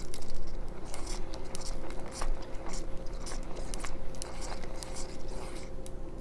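Hand-cranked ceramic burr coffee grinder crushing raw cacao nibs: an irregular crackling crunch, several short crunches a second.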